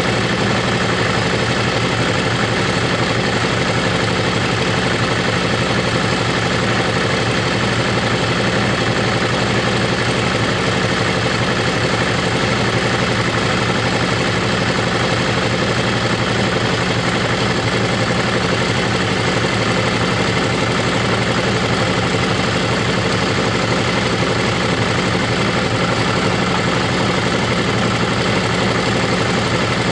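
Motorcycle engine running steadily at constant revs, its pitch holding even throughout with no changes in speed.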